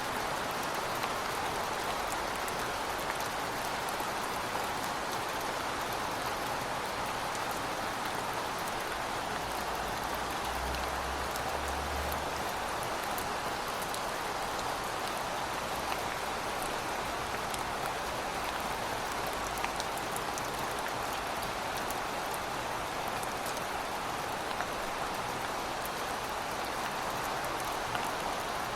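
Heavy rain falling steadily: an even hiss with scattered sharp drop ticks. A faint low rumble sits underneath from about ten to twenty seconds in.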